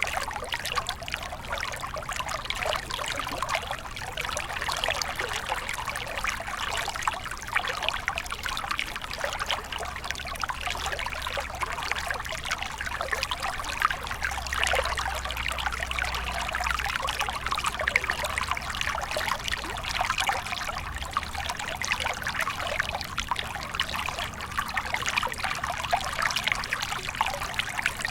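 Water stream flowing and trickling steadily, a continuous splashing babble with no pauses.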